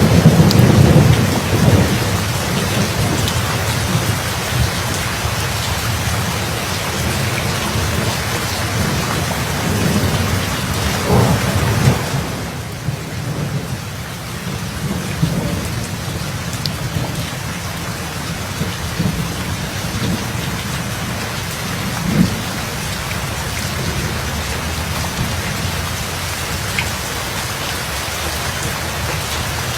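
Steady rain falling during a thunderstorm. A loud rumble of thunder at the start fades over a couple of seconds, another rolls in about a third of the way through, and a short clap comes about two-thirds of the way in.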